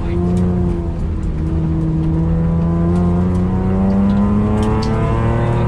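Mitsubishi Magna VR-X AWD's V6 engine heard from inside the cabin, pulling under acceleration. The pitch dips right at the start, then rises slowly as the car gains speed.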